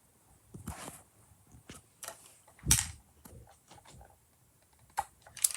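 Scattered short knocks and rustles, the loudest about two and three-quarter seconds in, with a few sharper clicks near the end.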